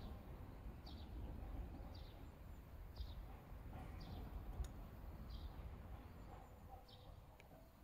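A bird calling with short high chirps, about one a second, over a low steady rumble.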